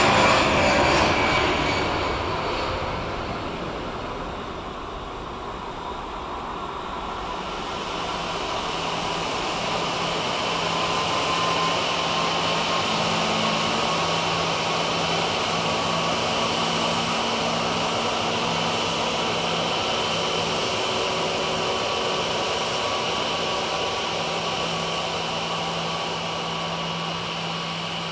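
Jet engines of an Airbus A340-211, a four-engined jet airliner. The sound is loud at first and fades over the first few seconds, then builds again from about seven seconds in to a steady running noise with a high whine.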